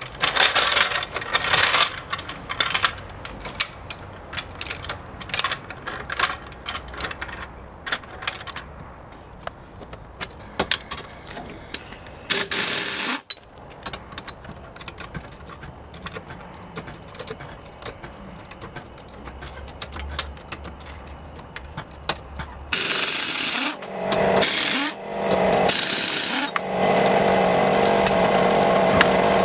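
Worn-out strut-top mount bearings squeaking and clicking in rapid, irregular strokes as the manual steering is turned with the front wheels off the ground, with longer, louder grinding stretches near the end: the bearings are shot.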